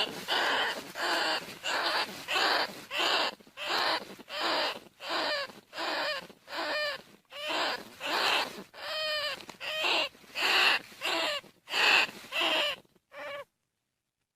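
Bandicoot rat squealing: short, pitched squeaks repeated about twice a second, some bending up and down in pitch, stopping shortly before the end.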